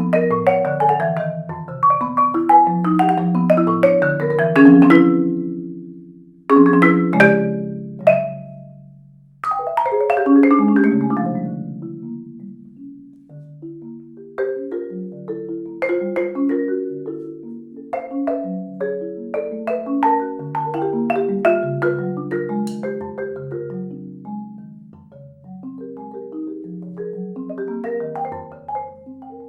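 Solo marimba played with mallets: dense, overlapping notes in the lower and middle range that swell and fade. Twice, about a fifth and a third of the way in, the sound dies away before the playing resumes.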